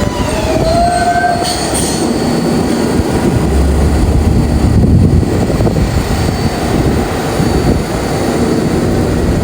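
R142A subway train running with a steady rumble, and a brief wheel squeal near the start.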